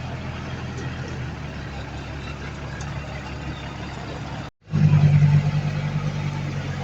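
Heavy diesel engine of earthmoving machinery running steadily. It breaks off for an instant about two-thirds of the way through, then comes back louder for a moment before settling.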